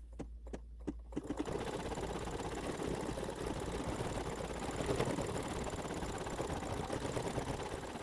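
Embroidery machine starting to stitch a satin detail: a few separate clicks in the first second, then running steadily with a fast, even needle chatter.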